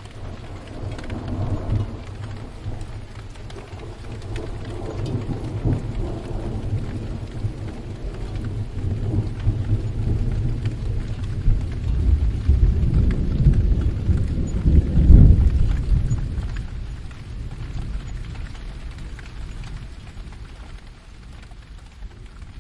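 Steady rain with a long roll of thunder that rumbles low, builds to its loudest a little past halfway, then fades away.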